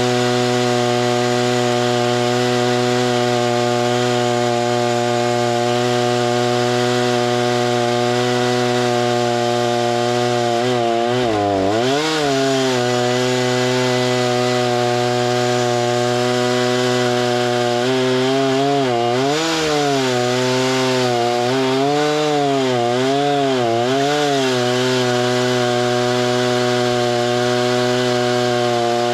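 Chainsaw running at high, steady revs while milling lumber. The engine pitch sags sharply once about eleven seconds in, then wavers up and down several times a few seconds later before settling again.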